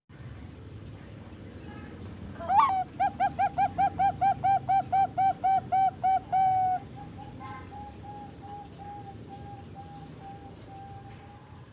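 Young Bangkok-strain zebra dove (perkutut), about three and a half months old, cooing: a rising opening note, then a fast even run of about fifteen loud staccato coos, roughly four a second, trailing off into softer repeated notes.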